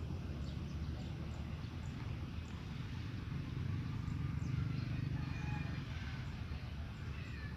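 Outdoor ambience of small birds chirping, with short high calls scattered throughout and busiest about halfway through, over a continuous low rumble.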